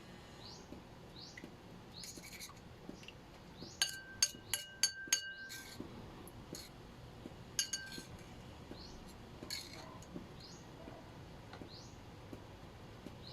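Glass or crockery kitchenware clinking: a quick run of about five sharp, ringing clinks about four seconds in, then a couple more near the middle. A bird chirps repeatedly in the background with short rising calls.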